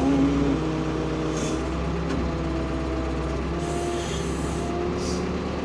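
Ford P-42 excavator's engine running steadily, a continuous drone with a few steady tones, while the machine works a stuck tree; a few brief hisses come over it.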